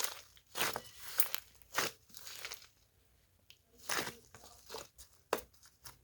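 Irregular crunching and crackling, a quick run of sharp crunches with a short lull about halfway through.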